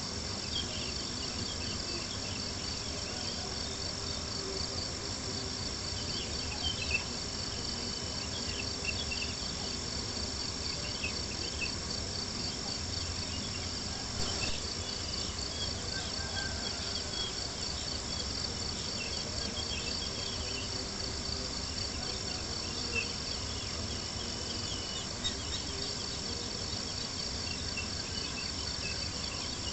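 A steady chorus of crickets chirping, with scattered small crackles and pops from a campfire over a low even background hiss.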